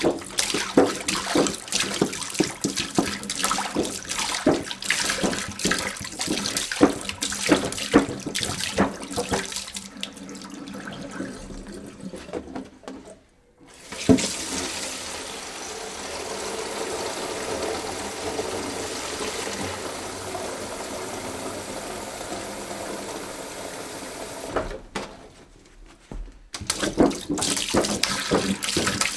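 Water splashing in irregular bursts, then, after a brief break about 13 seconds in, a steady stream of running water; after another short break near the end, the splashing starts again.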